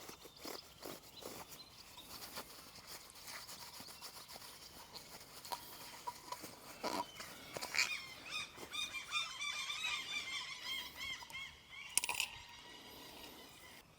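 Birds chirping steadily in a quick run of high repeated notes over the middle and later part, with light clicks and knocks of small parts being handled and a brief sharp sound about twelve seconds in.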